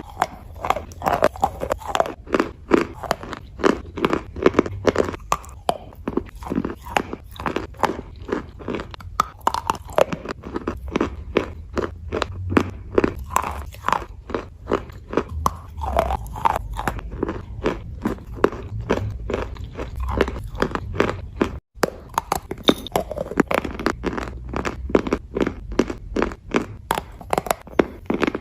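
A person biting and chewing chalk close to the microphone: a continuous run of dry crunches, a few a second.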